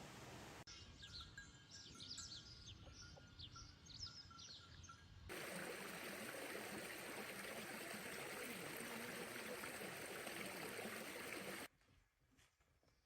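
Small birds chirping in quick short calls for a few seconds, then a steady rush of running water that cuts off suddenly near the end.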